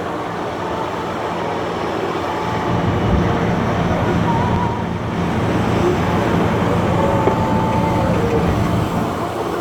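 Cat 992G wheel loader's diesel engine running hard as it works, a heavy steady rumble that grows louder about a quarter of the way in, with thin whines coming and going over it.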